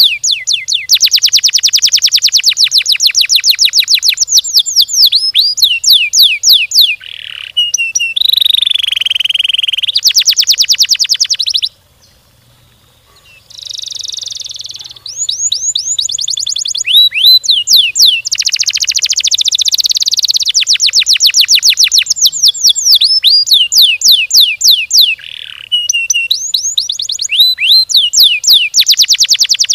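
Domestic canary singing long rolls: fast, tightly spaced runs of repeated high notes with quick rising and falling glides between them. The song breaks off for about two seconds some twelve seconds in, then starts again.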